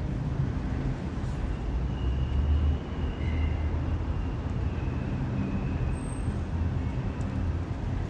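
City street traffic: a steady low rumble of passing cars and buses, with a faint high whine in the middle stretch.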